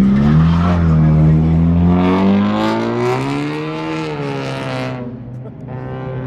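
A car accelerating hard: its engine note climbs steadily for about four seconds, then drops and fades as it goes past.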